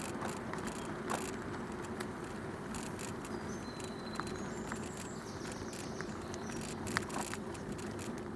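Bicycle tyres rolling steadily along a canal towpath, a continuous rushing noise with scattered small clicks and crunches from the surface. A bird chirps faintly now and then in the background.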